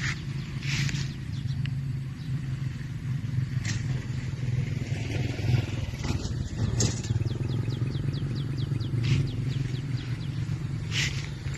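A steady low engine drone from a motor vehicle on the nearby road, with birds chirping over it in short high calls every two to three seconds and runs of fast ticking chirps.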